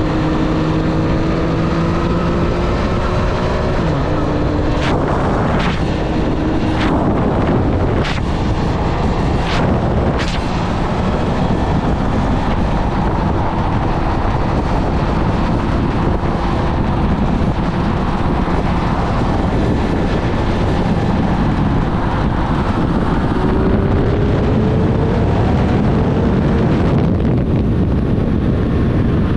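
2024 Triumph Street Triple 765 RS's inline-three engine on the move, under heavy wind rush. The engine note drops about four seconds in, about six sharp cracks follow over the next several seconds, and the note climbs steadily near the end as the bike speeds up.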